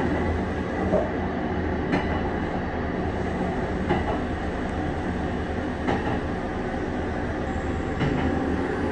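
Electric train running on the rails, heard from inside the front car: a steady rumble with a light clack from the rail joints every second or two.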